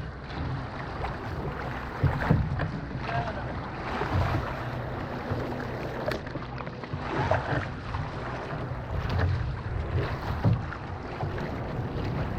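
Water noise and wind buffeting the microphone, as aboard a canoe on open water, with irregular low rumbling surges.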